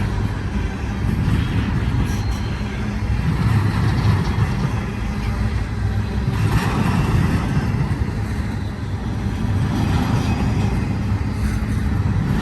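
Double-stack intermodal freight train in well cars rolling past: a steady low rumble of wheels on rail with a faint low hum underneath.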